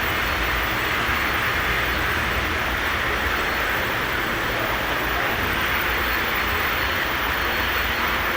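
Steady rushing noise with a low hum underneath, even throughout.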